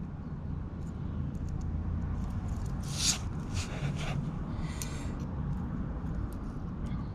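Small clicks and a few short rustling scrapes from hands fitting the clip back onto a carburetor's jet needle, over a steady low rumble.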